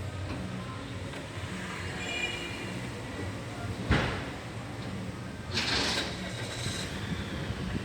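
A single sharp knock about four seconds in, then a short scraping rush a second and a half later, over a low steady hum.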